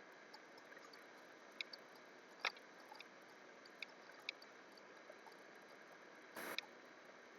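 Near silence: faint room tone with a few soft, scattered clicks and one short soft rustle near the end.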